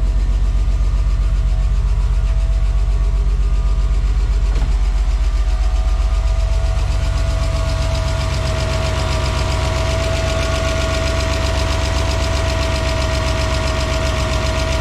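BMW M50B20TU 2.0-litre inline-six idling shortly after its first start in about two years, with a fast clatter and a steady whine over the engine note, a sound the owner calls weird and bad. About six seconds in, the low rumble eases and the clatter and whine grow louder.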